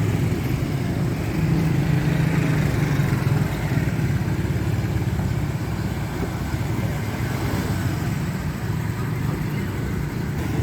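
Road traffic: motorcycle and car engines running steadily, with a low hum that eases slightly after the first few seconds.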